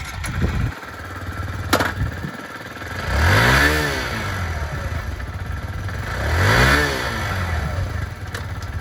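A Kawasaki Z125 Pro's 125 cc fuel-injected single-cylinder engine idling and being blipped twice, the pitch rising and falling back to idle each time. There is a sharp click early on.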